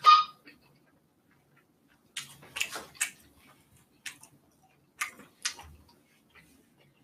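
A person eating: a sharp clink with a short ring at the start, like chopsticks striking a dish, then scattered irregular clicks and mouth smacks.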